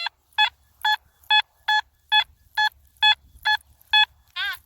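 Metal detector beeping steadily over a deep target, short identical beeps about two a second, then a warbling beep near the end.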